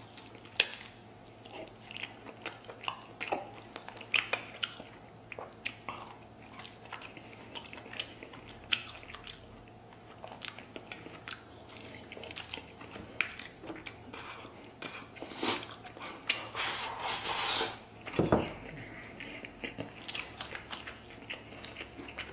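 A person chewing and biting food close to the microphone: a run of wet, smacking clicks. About three-quarters of the way through there is a louder, longer noisy sound, followed by a low thud.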